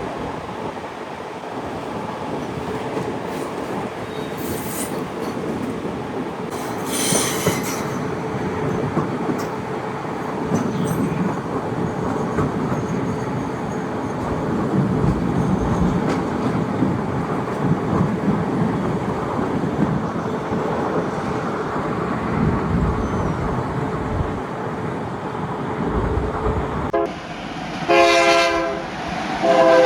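Train running on the rails with a steady rumble and rattle. Near the end the sound changes abruptly, and a train horn sounds in several tones at once.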